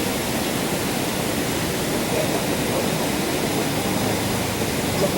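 Steady, even rushing background noise, with no distinct events.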